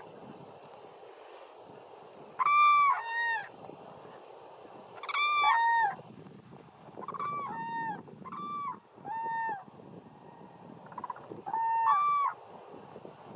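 Common cranes calling: loud trumpeting calls, a higher note paired with a lower one, in several bouts, over a steady background hiss.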